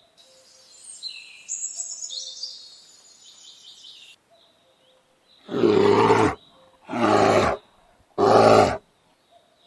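Birds chirping for the first few seconds, then a big cat gives three loud, deep roaring calls in a row, each under a second long.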